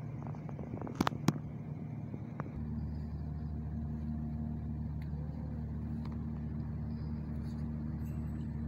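A steady low machine hum, like a running engine or motor, that gets deeper and fuller about two and a half seconds in. Two sharp clicks come about a second in.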